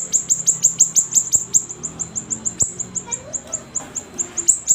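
A siri-siri songbird singing vigorously: a fast, even run of sharp, high chips, about seven a second, each dropping quickly in pitch.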